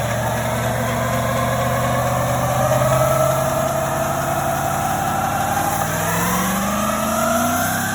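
A truck engine under hard acceleration, its pitch climbing slowly, then rising faster about six seconds in before dropping back near the end, like a gear change.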